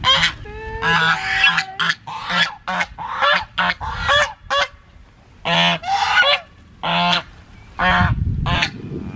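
A flock of domestic waterfowl calling, many short pitched calls in quick, overlapping succession, with a low rumble near the end.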